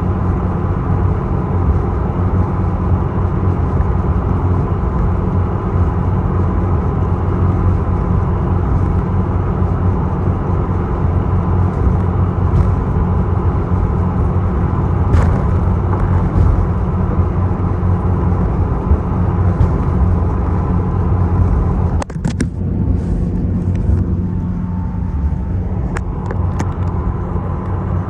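The Isokaze passenger boat's engine running with a loud, steady low rumble, heard on board. A few sharp knocks and clatters come about three-quarters of the way through.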